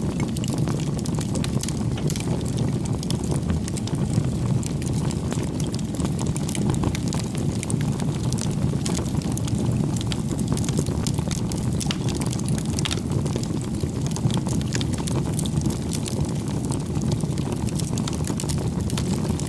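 Wood fire crackling: a steady low rumble of flames with frequent small, sharp pops and snaps scattered throughout.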